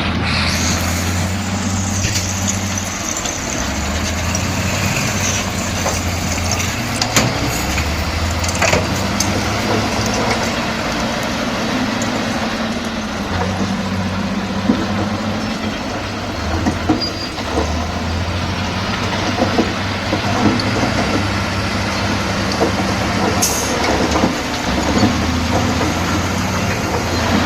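Heavy bulldozer's diesel engine working, its low note shifting every few seconds, with a few sharp metallic knocks over it.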